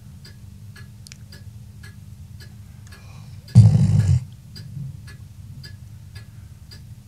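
Labrador snoring in deep sleep: one loud snore about half a second long roughly halfway through, over a steady ticking about twice a second.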